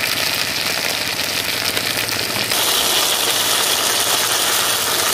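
Fried soya chunks, onion and capsicum sizzling in oil in an iron kadai as green chilli sauce is poured in. The sizzle is steady and grows louder about two and a half seconds in.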